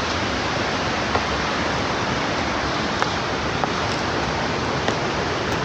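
Steady rushing of river water through rapids, an even, unbroken roar of flowing water.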